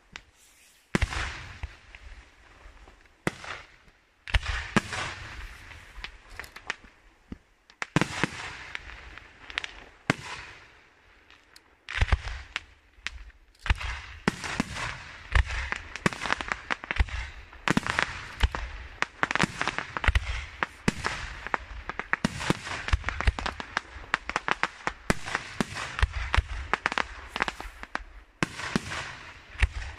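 Gioiese Fireworks' aerial display shells bursting in the sky with sharp bangs: a few separate bursts at first, then a dense, almost unbroken barrage from about twelve seconds in.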